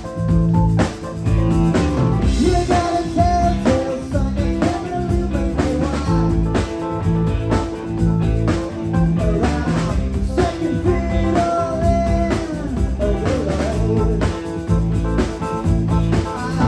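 Rock music with electric guitar, drum kit and singing, played at a steady beat.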